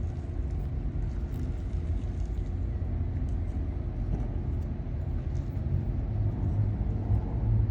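Low steady rumble of a motor vehicle's engine, with a hum that rises in pitch and gets louder near the end.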